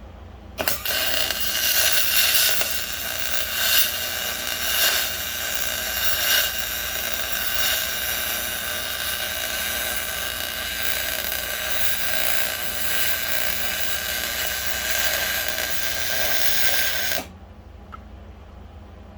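A small high-speed motor runs with a steady high-pitched whine. It starts suddenly about half a second in, has a few louder peaks and short knocks in its first several seconds, and cuts off sharply about two seconds before the end.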